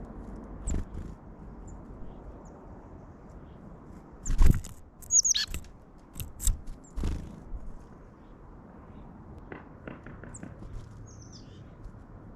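Wild birds at a wood pile: a few short, high chirps, and in the middle a cluster of loud thumps and flutters, with a quick falling call over them.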